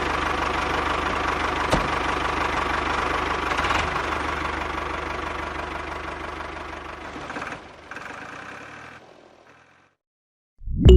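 Small motor running steadily with a fast rattle, slowly fading out over the second half and ending in a second of silence.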